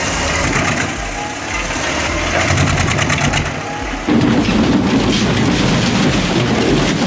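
Heavy industrial shredding machine running under load, a continuous rough mechanical grinding that gets suddenly louder and heavier about four seconds in.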